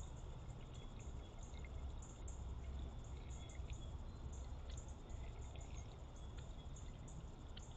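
Water trickling steadily, with faint short high chirps scattered through it.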